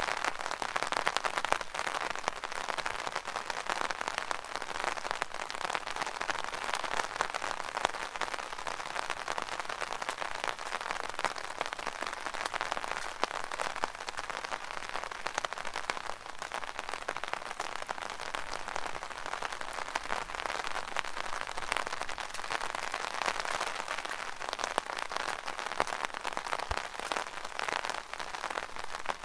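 Rain pattering steadily on an umbrella canopy, a dense crackle of countless small drop impacts that swells slightly now and then.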